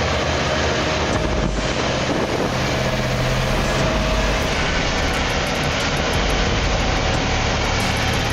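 Heavy machine engine running steadily under a loud, dense rushing noise, its low hum changing about halfway through.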